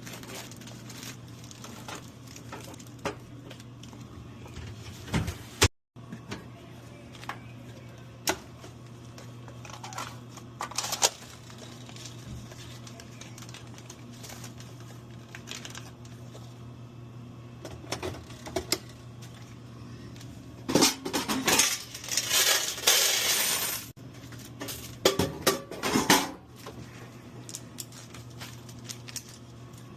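Hand restocking of a snack vending machine: scattered clicks, knocks and light metallic clinks as trays and items are handled, with a longer rustle of packaging about two-thirds of the way through, over a steady low hum.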